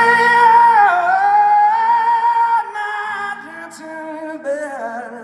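Live rock song: a singer holds a long, high note with vibrato for about two and a half seconds, then sings shorter, lower notes over the band, which fades near the end.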